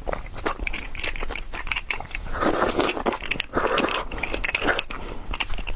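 Close-miked eating: a person biting into and chewing a big mouthful of food, with many sharp wet clicks and short crunchy bursts.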